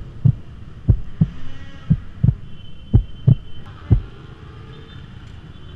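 Heartbeat sound effect: paired low 'lub-dub' thumps at about one beat a second, five beats in all, stopping about four seconds in.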